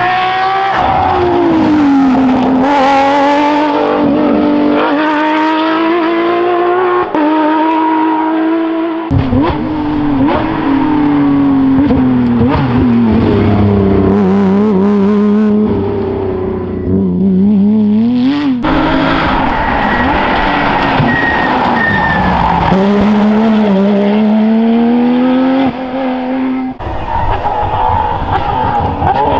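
Porsche rally cars driven hard, engines revving up and dropping back with gear changes and lifts, with some tyre squeal. Several separate runs follow one another, each change abrupt.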